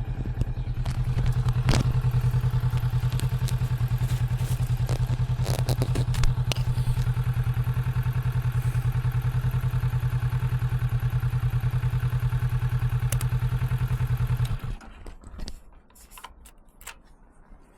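Kawasaki Vulcan 650 motorcycle engine idling with a steady, even pulse, then switched off about fifteen seconds in. A few light clicks and knocks follow.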